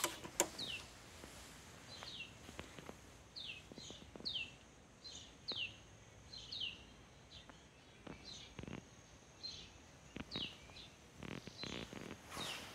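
A bird calling over and over with short, high chirps that each slide downward in pitch, about one or two a second. A faint, steady, high-pitched tone runs behind it, and a few soft knocks are heard near the middle and end.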